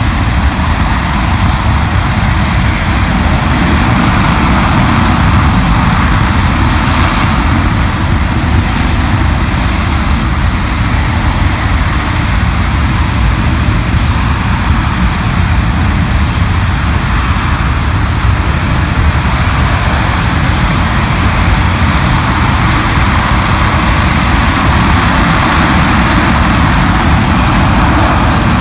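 RS-25 hydrogen-oxygen rocket engine firing on a test stand: a loud, steady noise, heaviest in the bass.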